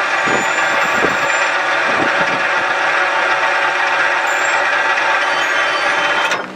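Freight train rolling past close by: a steady, loud rumble and rattle of wheels on rail, with a few clicks over rail joints in the first couple of seconds.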